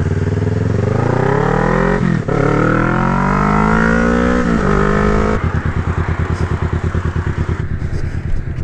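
Motorcycle engine accelerating through the gears: the revs climb, drop at a shift about two seconds in, climb again, and drop once more near four and a half seconds. From about five and a half seconds it settles to a low, lumpy, evenly pulsing run at low revs.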